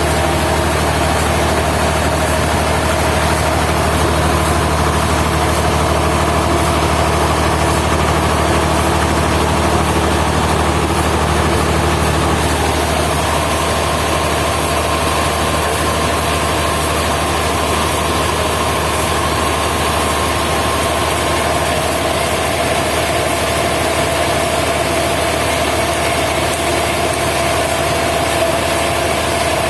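Sawmill machinery running steadily with a loud, even drone and hum. Its pitch shifts about halfway through.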